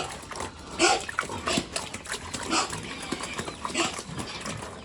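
Pigs squealing and grunting in short calls, about one a second.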